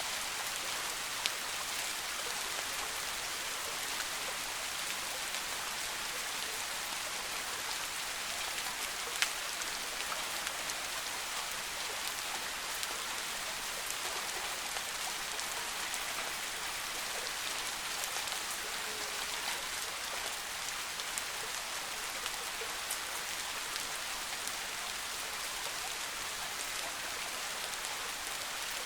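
Soft, steady rain falling in a forest: an even hiss with scattered single drops ticking through it, two sharper drop hits standing out about a second in and again around nine seconds.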